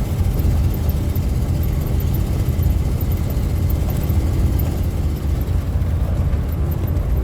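Steady low rumble of a car on the road, heard from inside the cabin: engine and tyre noise while driving.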